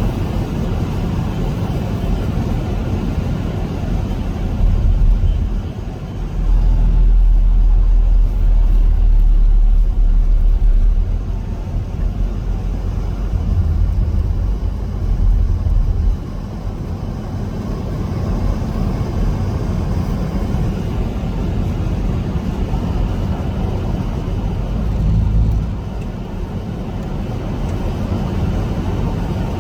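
Strong wind buffeting the microphone in gusts, a deep rumbling roar that swells and eases, strongest from about six to eleven seconds in.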